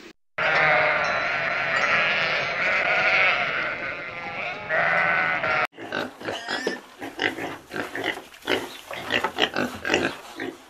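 Farm animals calling: a few seconds of many overlapping calls, then, after a sudden cut, a run of short, quick calls.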